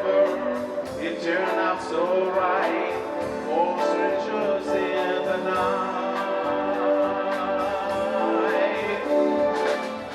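Live band playing a slow ballad: sustained chords under a wavering, sliding lead melody line, with no sung words.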